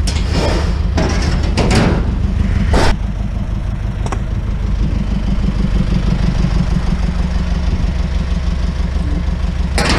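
Truck engine running steadily, with a few knocks or clunks in the first few seconds.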